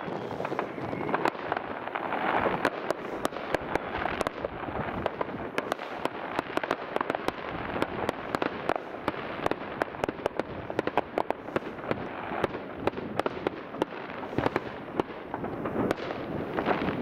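Many fireworks and firecrackers going off at once in the distance: a constant stream of overlapping bangs and sharp pops over a steady rumbling haze.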